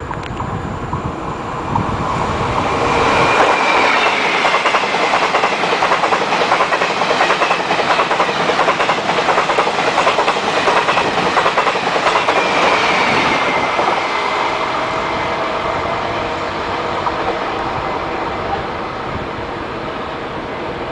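Train passing close by at speed, its wheels clattering rapidly over the rail joints. The clatter builds over the first few seconds, stays loud for about ten seconds, then fades into a steadier rumble as the train moves away.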